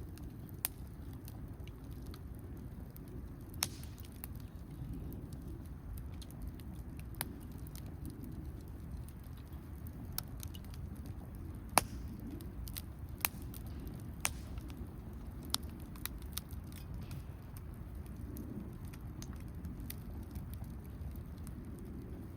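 Wood campfire crackling, with irregular sharp pops and snaps over a low steady background rush; one pop about halfway through is the loudest.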